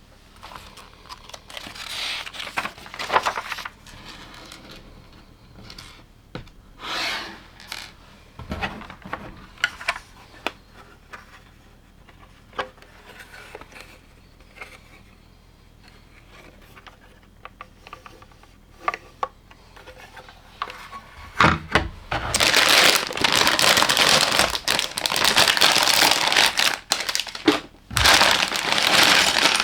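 Plastic LEGO pieces being handled: scattered clicks and short rustles, then from about two-thirds of the way in a loud, continuous rattle of many loose pieces clattering together.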